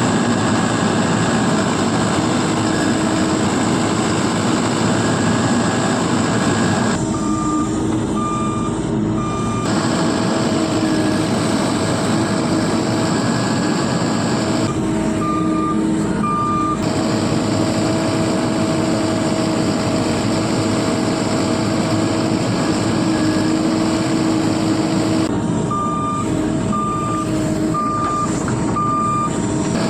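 Heavy vehicle's engine running steadily, with a reversing alarm beeping in three short runs: three beeps about seven seconds in, two near the middle, and four near the end.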